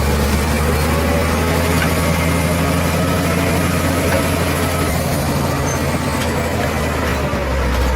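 Bulldozer's heavy diesel engine running steadily with a deep, even hum, its low note shifting slightly near the end.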